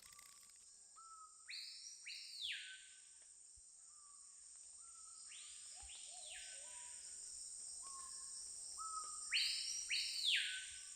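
Rainforest ambience: a steady high insect drone, with a bird calling three times, about four seconds apart. Each call is a pair of swooping notes over a few short lower notes.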